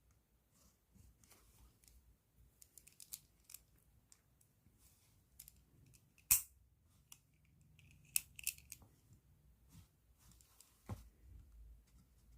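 A pen and plastic bag being handled: scattered crinkles and light taps, with one sharp click about six seconds in and a short burst of crinkling a couple of seconds later.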